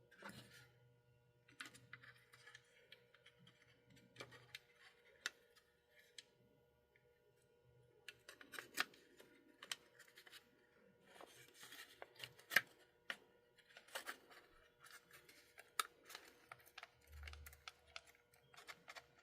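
Scattered light clicks and taps of small model-locomotive parts being handled and fitted, with a faint steady hum underneath.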